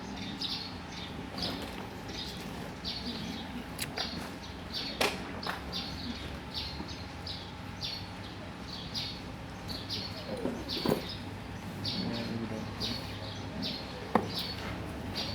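A small bird chirping over and over, short high notes about twice a second, with a few scattered clicks and a faint steady hum underneath.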